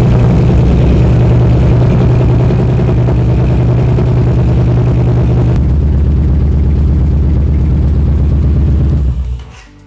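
Yamaha Bolt's air-cooled V-twin engine idling steadily after a fresh oil change, then switched off about nine seconds in.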